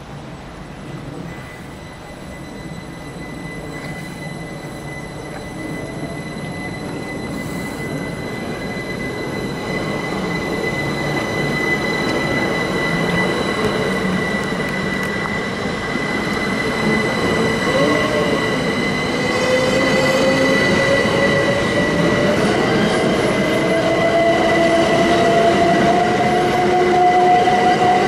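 A train moving through a station, growing steadily louder, with a steady high-pitched whine throughout and, from about two-thirds in, a second, lower whine that slowly rises in pitch.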